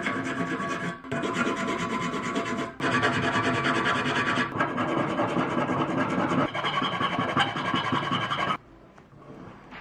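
Continuous rasping of a part being filed or abraded in a workshop. It comes in several runs with brief breaks and stops abruptly near the end.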